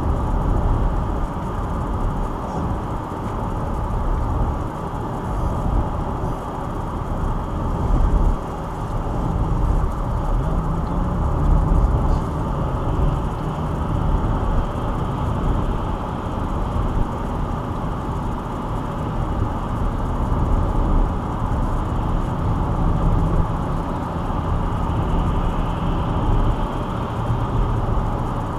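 Steady road and engine noise of a moving car, heard from inside the cabin through a dashcam microphone.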